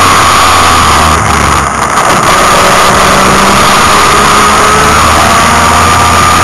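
Mazda Capella race car's engine running hard at high revs, heard inside the cabin. The level dips briefly about a second and a half in, then the pitch climbs steadily near the end as the revs rise.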